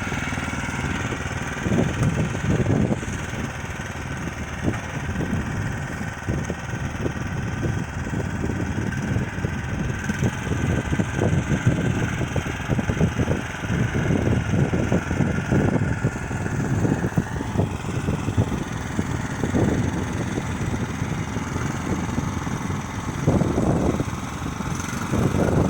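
Neva MB23 walk-behind tractor engine running steadily while it pushes snow with a small front blade, with brief louder spells about two seconds in and near the end.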